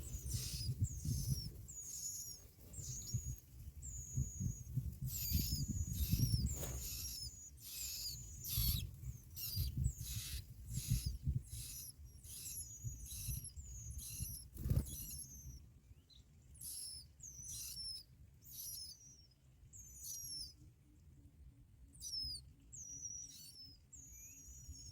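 Bar-winged prinias at the nest giving a long series of short, high-pitched notes that slide downward, one or two a second, thinning out toward the end. Low rustling runs underneath, with a sharp knock about fifteen seconds in.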